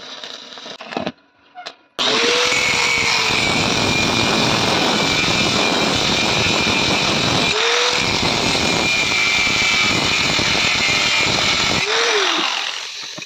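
A loud, steady power tool running on metal, starting suddenly about two seconds in and dying away near the end.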